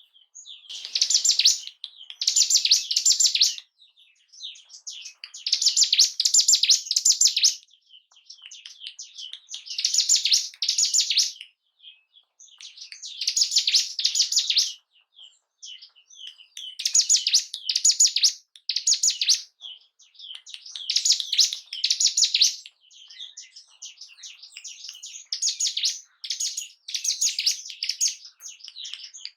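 Ciblek gunung, a mountain prinia, singing. It gives a series of rapid, high, chattering song phrases of a second or two each, repeated every few seconds with short pauses between.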